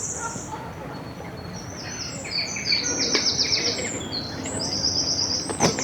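Songbirds singing: several high, rapid trilled phrases over a steady background of outdoor noise, with a sharp click near the end.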